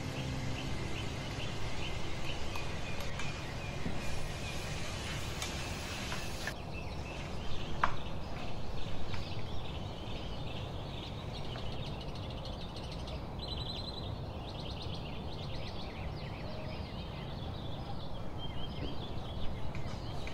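Minced beef and sliced onions frying in a stainless steel pan with a steady sizzle as they are stirred, with bird chirps in the background.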